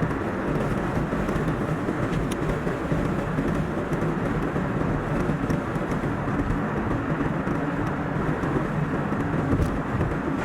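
Steady road noise of a car driving along a highway, tyre and engine noise as one even roar, played back at double speed. A couple of faint ticks sit on top.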